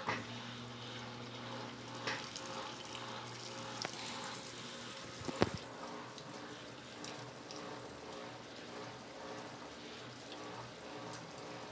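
Electrolux LTC15 top-loading washing machine taking in water: water running into the tub over a steady hum, with a few short knocks, the loudest about five and a half seconds in.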